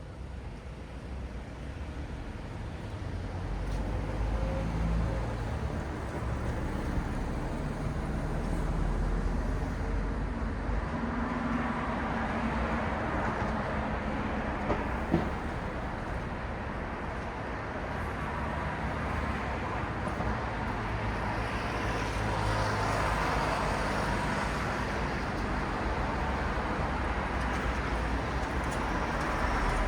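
City street traffic: a steady low rumble of engines, with tyre noise swelling and fading as vehicles pass, twice growing louder for several seconds. One sharp click about halfway through.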